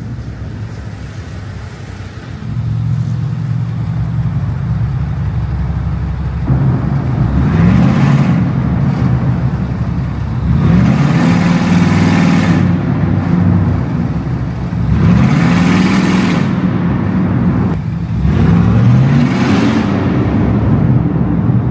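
BMW M550i's twin-turbo V8 running through an exhaust with the muffler and both resonators cut off. It runs steadily at first, then revs up and falls back four times, loud each time.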